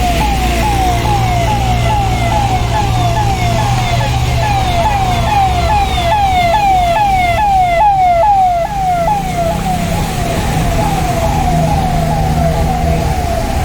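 Emergency vehicle siren cycling through a fast, repeating up-and-down sweep, about two or three cycles a second, growing loudest about eight seconds in and then easing off. A low engine rumble from road traffic runs beneath it.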